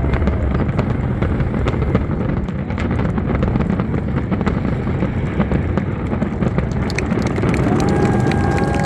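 Fireworks barrage: many rapid booms and crackles that merge into a continuous rumble. A steady high whistle-like tone comes in near the end.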